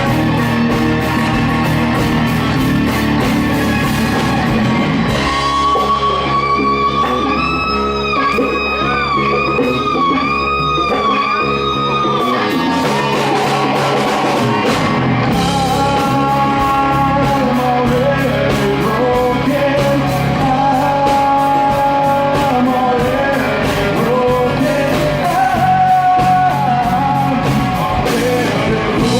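Rock band playing live: guitars, bass and drums. About six seconds in the cymbals drop away while a single high held note wavers with slow, wide vibrato for several seconds, then the full band comes back in under a melodic lead line.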